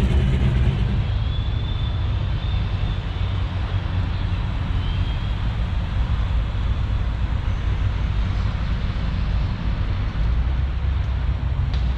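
A car engine running at low speed, a steady low rumble.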